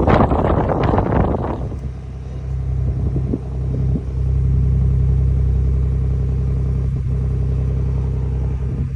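Ford 2.7 EcoBoost twin-turbo V6 idling steadily shortly after a cold start in subzero weather, with an even low engine drone. A rush of wind noise covers it for the first second or so.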